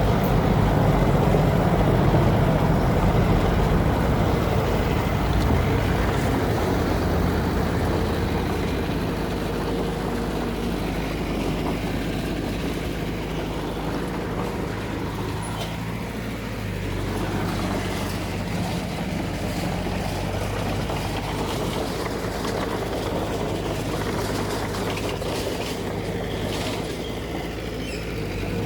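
Heavy diesel engine of earthmoving machinery running, louder for the first several seconds, then easing to a steadier, lower level.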